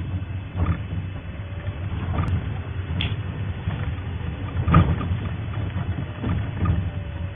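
Safari vehicle's engine running low and steady, with several irregular knocks and rattles from the vehicle.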